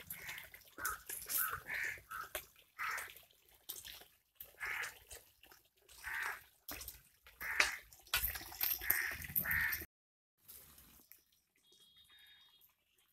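A bird's harsh calls, repeated roughly once a second, cut off abruptly about ten seconds in; only faint sounds follow.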